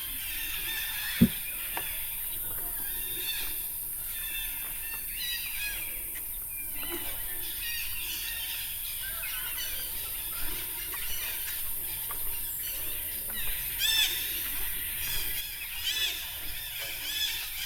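Jungle birdsong: many birds chirping and calling over a steady high hiss, with louder, clearer arched calls in the last few seconds. A single sharp knock about a second in.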